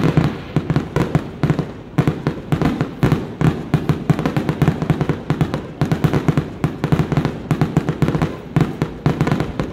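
A fireworks display going off in a rapid, continuous volley of cracks and bangs, many reports a second, with no pause.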